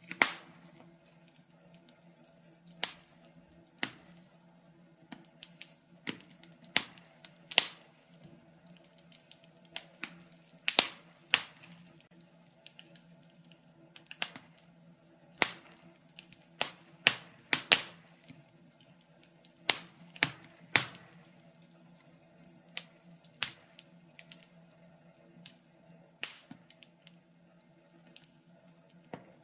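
Wood fire in a fireplace crackling, with irregular sharp pops and snaps about every second, some much louder than the rest, over a faint steady low hum.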